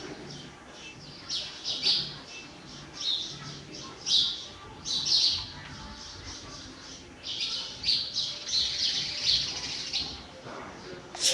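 A bird giving short, high-pitched chirps over and over, a call every second or so, with a louder one near the end.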